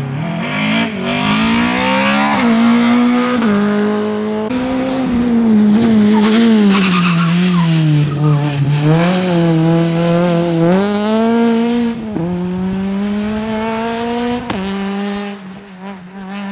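Rally car engine revving hard past, its pitch climbing through the revs and dropping sharply at each gear change. It eases off in the middle, then picks up again and fades near the end.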